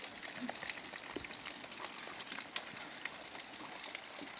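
Rain falling steadily: a constant hiss with scattered sharp drop ticks.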